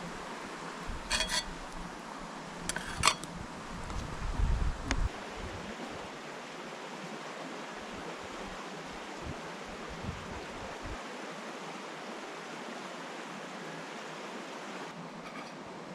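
A few light metal clinks of camp cookware or utensils, about a second in and again around three seconds, against a steady rushing background. There are some dull handling bumps around four to five seconds.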